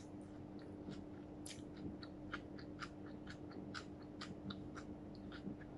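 A person chewing food with many faint, irregular wet mouth clicks and smacks. A steady low hum runs underneath.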